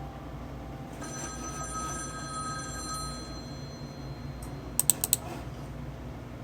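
Telephone bell ringing in one ring of about three seconds. About five seconds in come three sharp clicks in quick succession.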